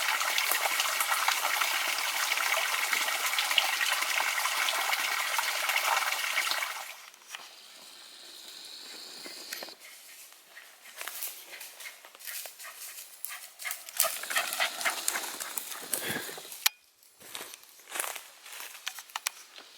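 A steady rush of water for about seven seconds stops abruptly. A dog can then be heard moving about, with scattered short clicks and rustles.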